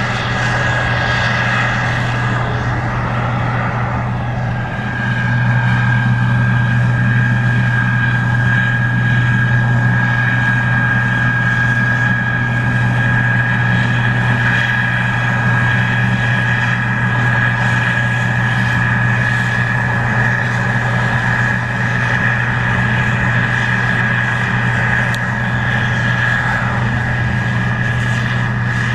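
Case IH 2144 Axial-Flow combine running while harvesting corn: a steady low diesel drone with a steady high whine above it, getting a little louder about five seconds in.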